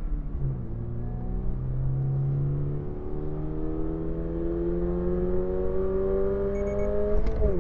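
2022 Toyota GR86's 2.4-litre flat-four engine pulling hard through a gear, heard from inside the cabin, its pitch climbing steadily for several seconds. Near the end the revs drop sharply at an upshift of the six-speed manual. A brief high beep sounds just before the shift.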